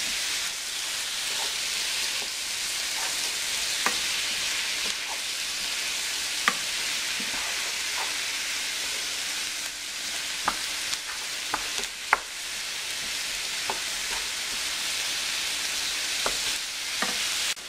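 Chopped cabbage and onions sizzling steadily as they fry in bacon grease in a skillet. Scattered sharp clicks and scrapes come from a utensil stirring them in the pan.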